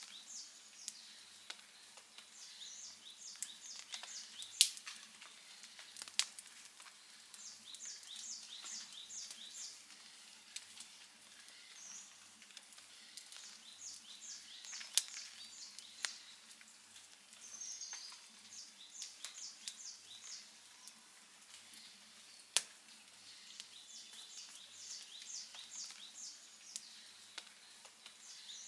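Wood fire crackling, with occasional sharp pops spaced several seconds apart. Groups of rapid, high chirps repeat in the background every few seconds.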